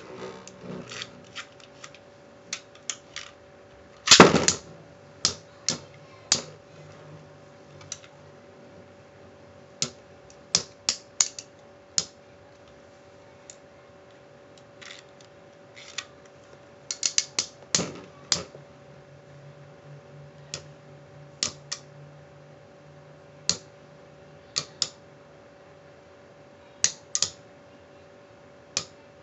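Two Metal Fight Beyblades, Lightning L-Drago and Pirate Kraken, spinning in a stadium and clashing, with irregular sharp clicks of metal wheels hitting each other and the stadium wall. The loudest hit is about four seconds in, with a quick flurry of hits a little past halfway.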